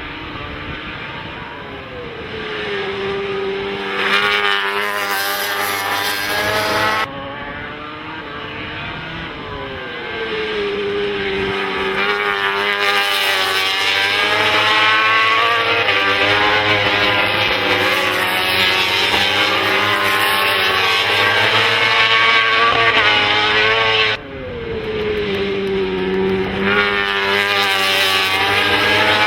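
990cc four-stroke MotoGP race motorcycle engines at high revs, the pitch dropping several times as the bikes brake and shift down, then holding steady. The sound jumps suddenly in level a few times where shots change.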